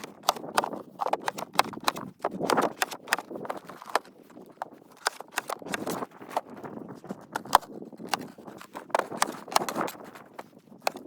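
A busy, irregular run of sharp clicks and knocks over soft crunching, several to the second, with no steady rhythm.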